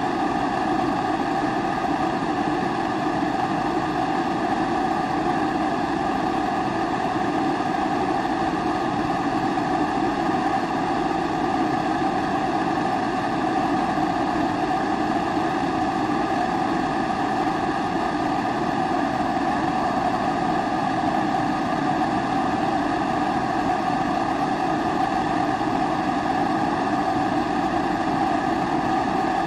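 Pressurised kerosene stove (primus-type burner) burning steadily, an even, unbroken sound that holds the same level throughout.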